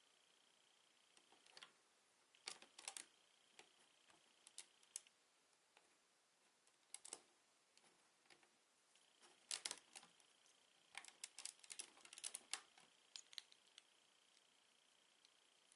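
Plastic Lego bricks clicking and clattering as they are handled, in irregular clusters of sharp, light clicks with short pauses between them.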